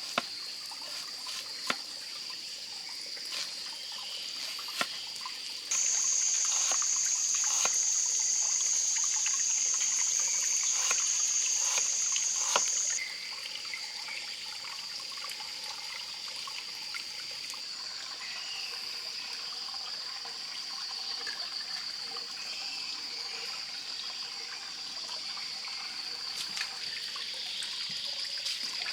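Trickling water under a steady high-pitched tone, with a louder high buzz from about six seconds in that cuts off suddenly about seven seconds later, and scattered small clicks.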